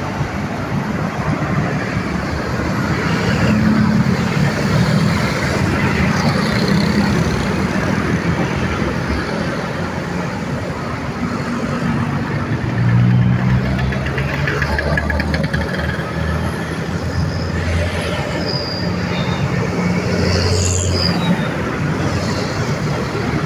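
Busy road traffic: a steady stream of cars, motorcycles, trucks and buses passing, engines and tyres running together with heavier engines swelling in and out. A few short high squeaks come near the end.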